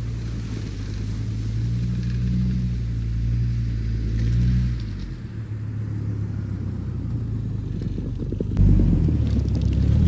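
A vehicle engine runs with a low rumble. It builds about two seconds in, eases off around the middle, and gets louder and rougher near the end, as in an attempt to drive out of deep icy ruts in snow.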